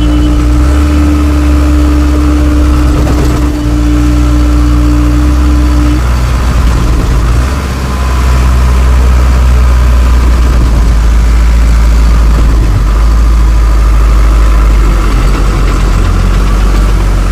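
An engine running steadily, with deep rumble, and a steady tone over it that stops about six seconds in.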